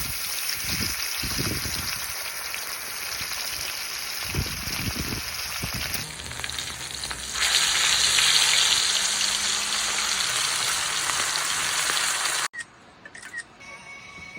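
Meat sizzling on a hot griddle pan, a dense steady sizzle heard in a few cuts that grows louder about halfway through, then breaks off abruptly near the end.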